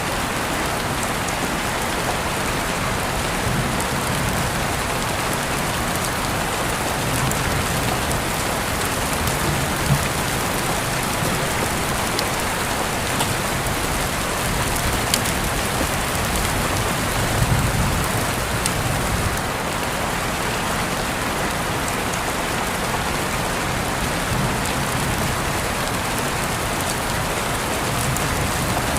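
Steady rain falling, with a few louder single drops ticking now and then.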